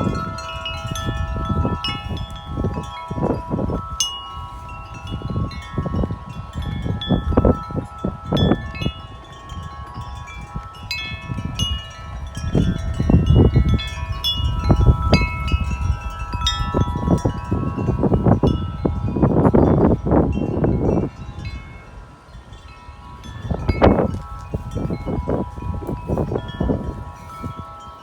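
Wind chimes ringing steadily as the gusts swing them, with many tones sounding together. Gusts of wind buffet the microphone with a low rumble that swells and fades several times.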